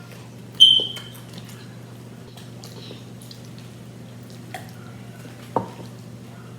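Quiet eating sounds: a sharp smack with a short high squeak about half a second in, then a few faint clicks, over a steady low hum.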